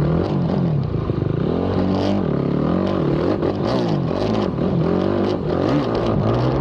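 Racing ATV engine revving hard, its pitch rising and falling every second or so as the throttle is worked and gears change, with scattered knocks and clatter from the quad over rough ground.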